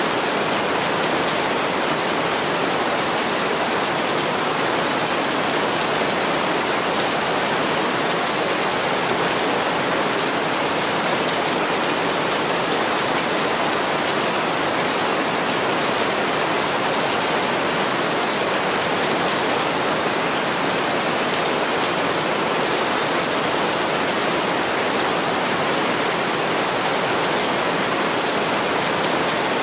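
Heavy rain falling steadily on a window: a dense, even hiss with no breaks.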